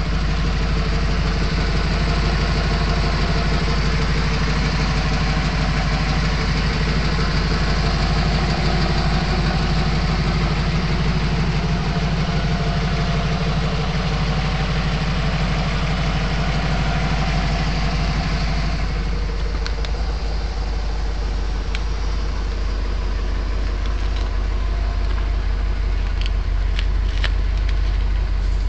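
1979 Mercedes-Benz 450SL's V8 engine idling steadily, a constant low hum with a hiss above it. The hiss drops off about two-thirds of the way through, leaving the low hum.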